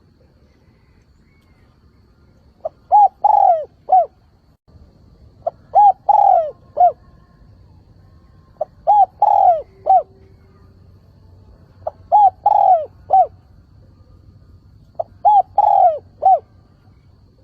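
Spotted dove (chim cu gáy) cooing its repeated song: five identical phrases about three seconds apart, each a short coo, a longer drawn coo and a short closing coo. It is the advertising call of a decoy bird, used to lure wild doves and stir rivals into calling.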